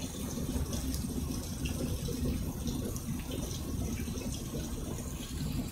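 Steady rain falling on a wet concrete driveway and grass, with faint scattered drip ticks.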